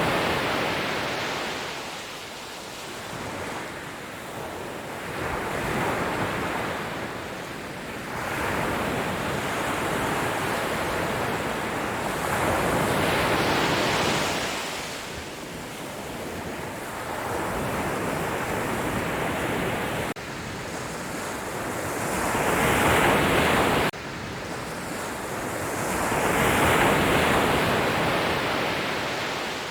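Sea waves washing onto the shore, the surf rising and falling in slow surges every four to six seconds. The level drops abruptly twice, past the middle and again a few seconds later.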